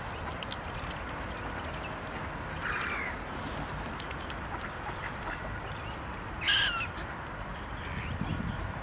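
Two short bird calls about three and a half seconds apart, the second louder, over light ticking and dabbling from mute swans' bills feeding at the water surface.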